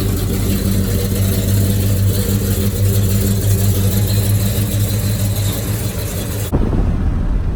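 Steady low drone of a car's engine and road noise, heard from inside the moving car. About six and a half seconds in it cuts off suddenly to wind buffeting the microphone.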